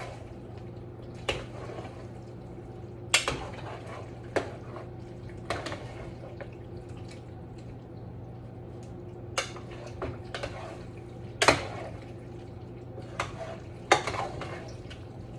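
Metal spoon stirring food in a pot, with irregular clinks and scrapes against the metal. A steady low hum runs underneath.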